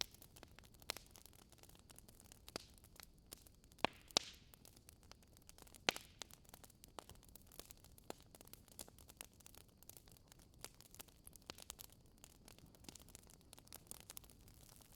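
Wood fire crackling, with irregular small pops and snaps over a low hiss and a few louder pops about four and six seconds in.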